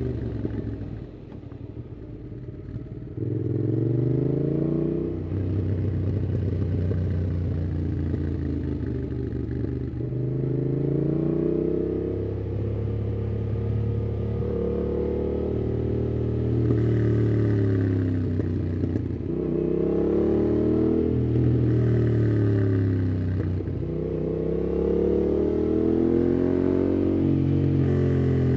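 Yamaha MT-07's 689 cc parallel-twin engine through a MIIV aftermarket exhaust with dB killer, riding under load: the engine note climbs and falls back again and again as it pulls through the gears. There is a quieter off-throttle dip near the start.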